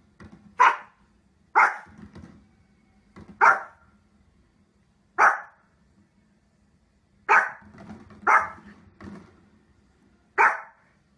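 A dog barking: seven loud single barks, spaced one to two seconds apart.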